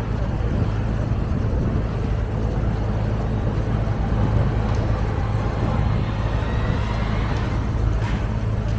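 Engine of a passenger boat under way, running with a steady low drone under a constant rushing noise.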